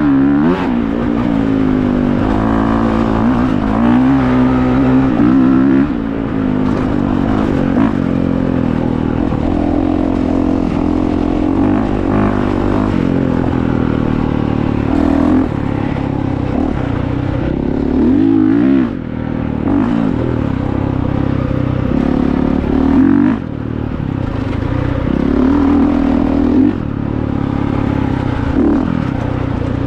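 Honda CRF450R's single-cylinder four-stroke engine revving up and down under changing throttle while ridden off-road, with a few short drops in revs where the throttle is shut.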